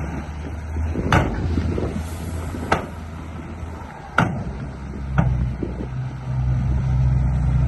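Radio-controlled bulldozer running, a steady low motor hum that steps up in pitch about five seconds in, with several sharp knocks.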